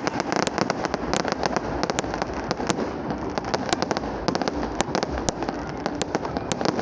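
Fireworks going off in rapid succession: many sharp cracks and bangs, several a second and overlapping, over a continuous rumble of more distant bursts.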